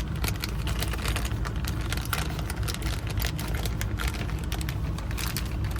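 Keys and small lock parts clicking and rattling as they are handled and packed away, over a steady low rumble.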